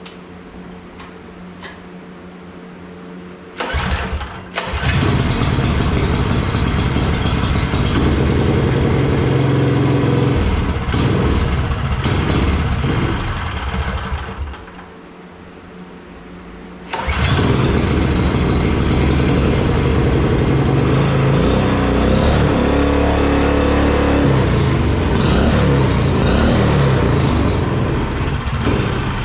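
Single-cylinder 6.5 hp small engine, bench mounted with an exhaust stack, pull-started: it catches and runs loudly for about ten seconds, stops, and is started again about three seconds later, then keeps running.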